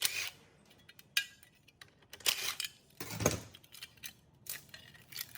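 Metal parts and tools clinking and scraping as they are handled on a rusty machine being restored, in about half a dozen separate strokes roughly a second apart.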